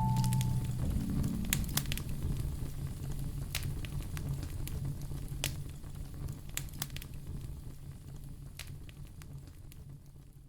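Wood fire crackling: irregular sharp pops over a low steady rumble, fading steadily toward the end. A last piano note rings out in about the first second.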